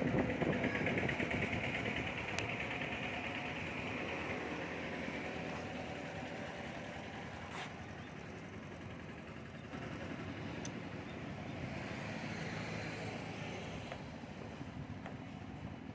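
A motor vehicle engine running, loudest at the start and easing off slowly, with a few faint clicks.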